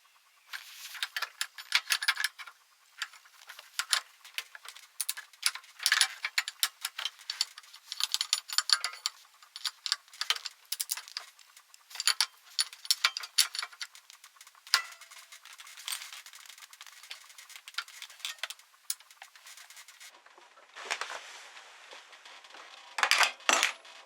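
Metal tools and small parts clinking and rattling as they are handled, a busy run of sharp clicks with a louder clatter near the end.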